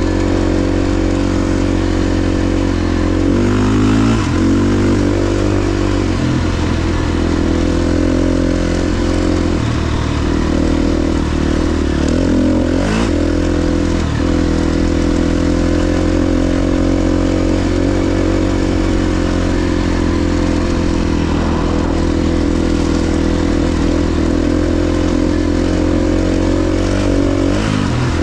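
KTM 350 XC-F dirt bike's single-cylinder four-stroke engine running while being ridden, holding fairly steady revs with a few brief drops and rises in pitch as the throttle is rolled off and back on.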